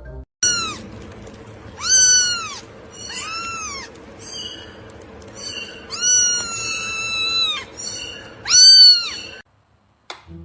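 A cat meowing again and again: a run of high, arching meows, one long drawn-out meow about six seconds in, and the loudest one just before the sound cuts off abruptly near the end.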